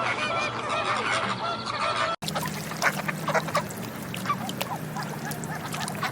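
A flock of ducks and geese calling, with overlapping honks and quacks. The sound cuts abruptly about two seconds in to another group, where short calls mix with many brief clicks.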